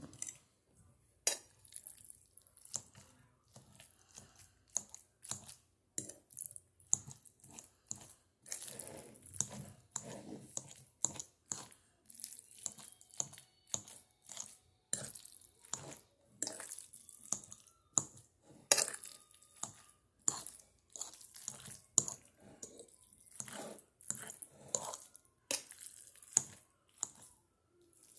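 Wet chewing and lip smacks of someone eating spaghetti in meat sauce, an irregular run of short smacks several a second, with now and then a sharper click of the metal fork against the plate.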